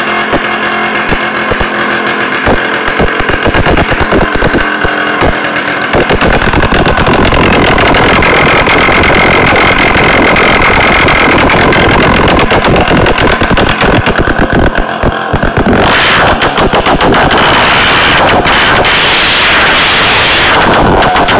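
Vespino R1 moped's 65cc two-stroke single-cylinder engine running with a rapid, crackling exhaust beat. It gets louder about six seconds in and harsher and brighter about five seconds before the end, as if revved harder.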